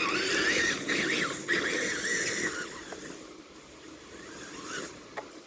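Tamiya TXT-2 RC monster truck's electric motor and gears whining, the pitch wavering up and down with the throttle. It fades after about two and a half seconds to fainter scraping, with a sharp tick near the end.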